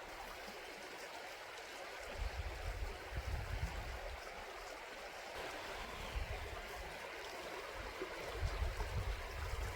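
River water rushing steadily, with irregular low rumbles coming in from about two seconds in and growing stronger near the end.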